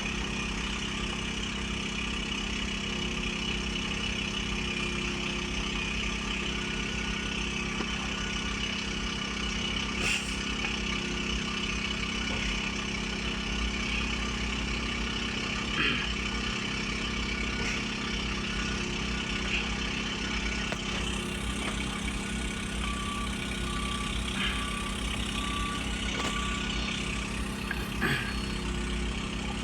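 Heavy diesel construction machinery running steadily, a continuous low engine drone. A few sharp knocks stand out, and about three-quarters of the way in comes a short run of high beeps.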